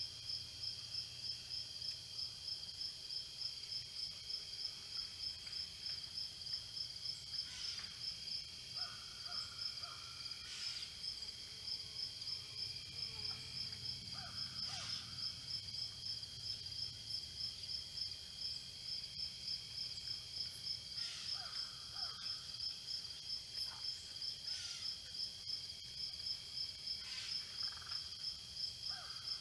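Field insects, crickets or similar, chirping in a steady pulsing chorus, about three pulses a second, over a continuous high drone. Short chirps break in now and then.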